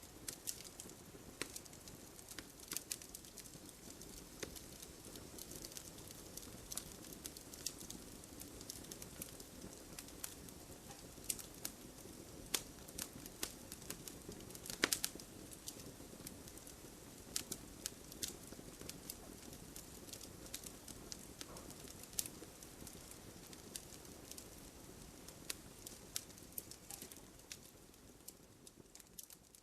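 Wood fire in a fireplace crackling: frequent sharp pops and snaps over a low, steady rush of burning. The sound fades away near the end.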